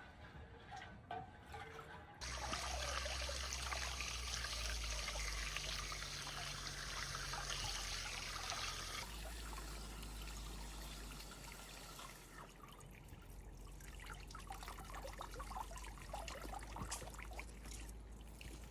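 Water pouring in a steady stream, starting a couple of seconds in and stopping suddenly about nine seconds in, followed by fainter trickling with small crackles.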